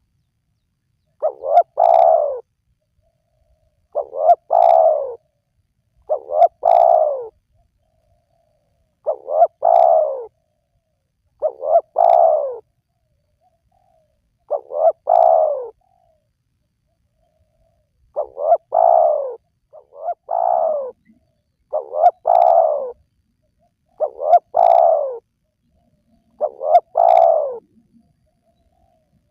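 Spotted dove (tekukur) cooing: each phrase is a short note followed by a longer falling coo, repeated about every two to three seconds with silence in between, eleven phrases in all.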